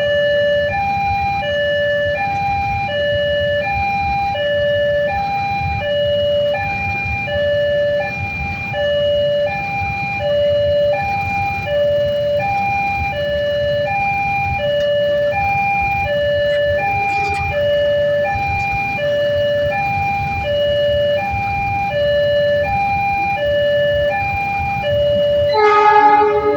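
Two-tone electronic warning alarm alternating high and low, about one high-low cycle a second, over a steady low rumble. Near the end a brief, louder horn-like tone with many overtones sounds.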